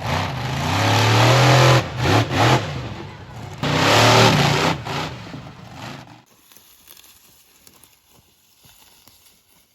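Monster truck engines revving hard, the roar rising and falling in pitch several times. It cuts off suddenly about six seconds in, leaving a quiet outdoor background with faint scattered ticks.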